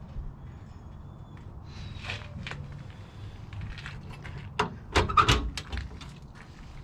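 A quick run of sharp metal clacks and knocks about five seconds in, as a service-truck body compartment door and its latch are worked open, over a low steady background hum.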